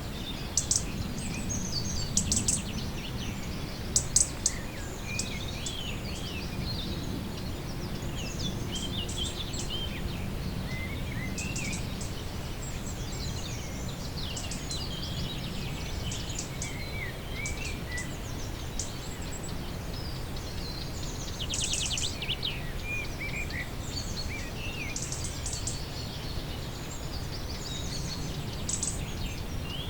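Several songbirds singing and calling all through: short chirps, twitters and a few rapid trills, over a steady low outdoor rumble such as wind or distant water.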